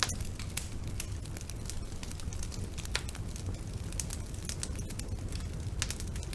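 Wood fire burning in a fireplace: a steady low rumble of flame with irregular crackles and sharp pops, the strongest right at the start and about three seconds in.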